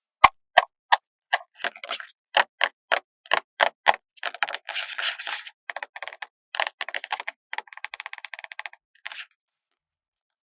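Handling of paper stickers: a run of sharp taps, about three a second, then crackly rustling and a longer crisp crackle, typical of a sticker being peeled off its backing sheet.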